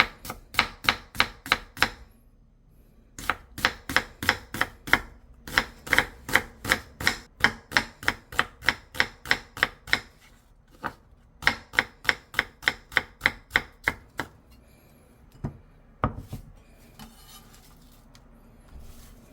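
Kitchen knife chopping on a cutting board, about three even strokes a second in three runs with short pauses, then two single knocks and faint handling near the end.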